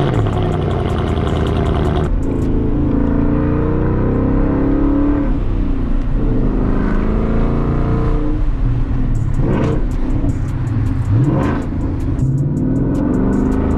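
Ford Mustang GT's 5.0 V8 through a loud aftermarket exhaust, running just after a cold start while it warms up, with engine speed shifting as it is driven slowly and a short rev about eleven seconds in.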